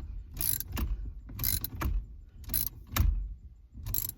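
Socket ratchet tightening the bolts of a harmonic balancer puller: short runs of ratchet clicking about once a second.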